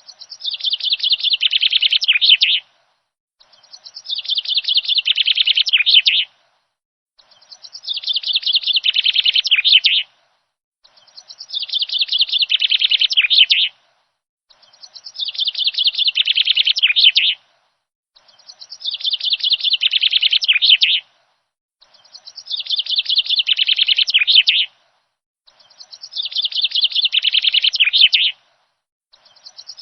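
A bird singing: a rapid, high-pitched run of chirps that builds in loudness for about two and a half seconds and then stops sharply, repeated in near-identical bouts about every four seconds.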